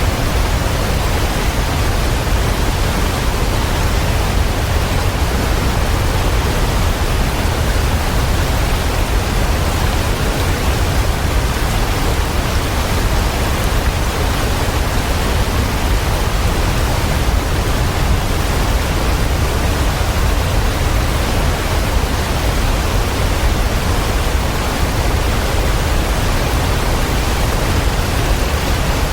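Waterfall: a steady, even rush of falling water, heavy in the low end, with no change in level.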